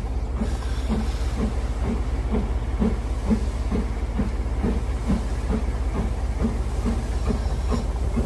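Steam locomotive with a steady, even beat a little over twice a second over a continuous low rumble.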